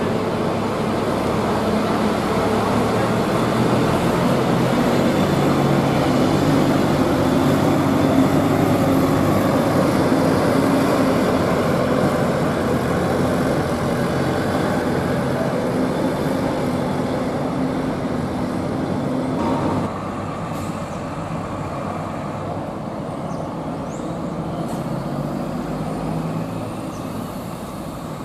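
Large diesel bus engine running close by, a low steady drone that shifts slightly in pitch, over general traffic noise; the sound drops in level about two-thirds of the way through.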